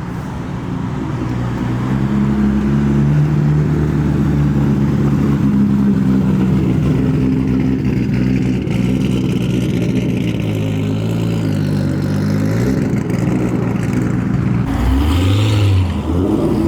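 Loud modified car engine running at low revs as the car drives slowly past, a steady droning hum that grows louder over the first couple of seconds. Near the end there is a short rev that rises and falls.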